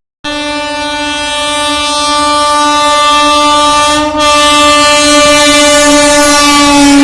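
Train horn sounding one long, unbroken blast that cuts in suddenly just after the start and grows louder, with a brief dip about four seconds in.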